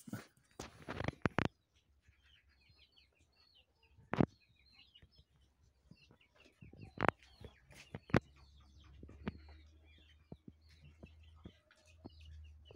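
Birds chirping and twittering in the background, many short calls one after another, with a few sharp knocks and clicks standing out over them.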